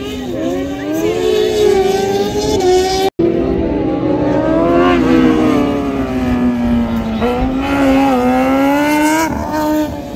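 Rally car engine running hard at speed, its pitch climbing and falling as it changes gear and slows. The sound cuts out briefly about three seconds in.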